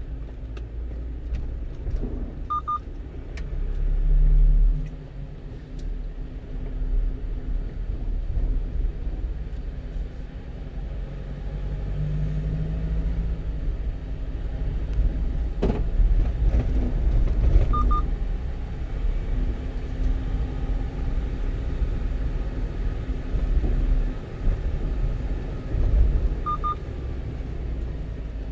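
A 1-ton truck driving along a road: a steady low rumble of engine and road noise that swells and eases with the traffic. A short high double beep sounds three times.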